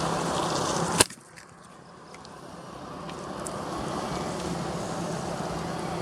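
Steady engine and road-traffic noise with a low hum, broken by one sharp click about a second in; the sound then drops away and slowly builds back up.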